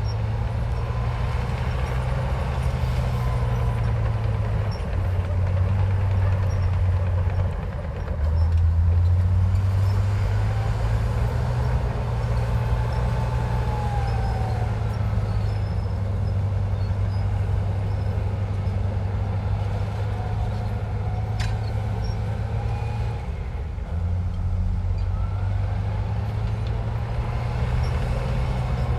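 Heavy diesel earthmoving machinery working, most likely a Komatsu bulldozer. A steady low engine drone eases off briefly twice, with faint squeals rising and falling over it.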